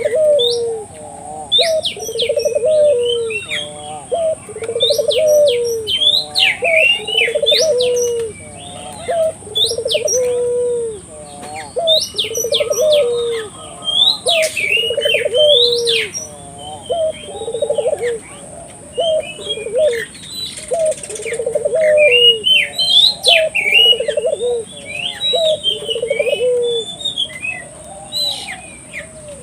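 Ringneck (Barbary) dove cooing persistently, one coo about every second, the steady repeated calling that dove keepers use as a lure to set other doves cooing. Small birds chirp higher above it, over a faint steady high hiss.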